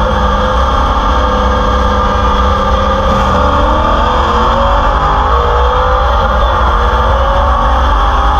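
Modified C6 Corvette Z06's 7.0 L LS7 V8, with ported heads, a custom cam, long-tube headers and a straight-piped exhaust, pulling hard at speed with a loud, steady exhaust note.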